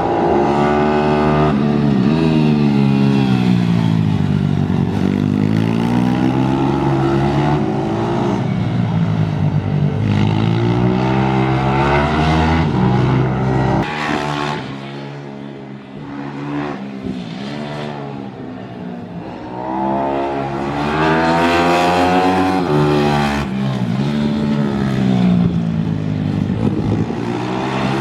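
Single-cylinder pit bike engine revving hard, its pitch climbing and falling again and again as the throttle is opened and shut. It goes quieter and lower for several seconds about halfway through, then climbs again.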